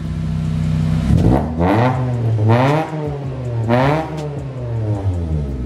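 Acura EL's D17 four-cylinder engine, breathing through a freshly installed Speedfactory turn-down muffler, idles and is then revved up and down a few times, sinking back toward idle near the end.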